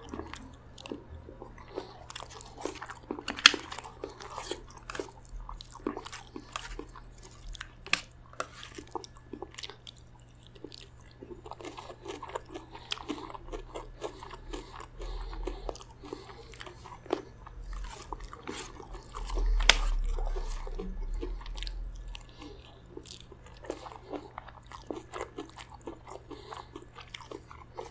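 Close-miked chewing and biting of chicken gizzard curry with rice and lettuce salad, full of sharp crunches and clicks. For a couple of seconds about two-thirds of the way through, the chewing grows louder.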